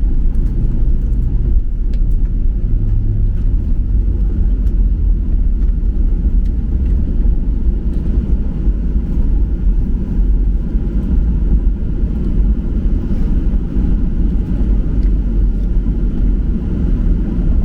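Steady low rumble inside the cabin of a Boeing 737-800 on the ground just after landing, its engines and wheels running with no change in pitch.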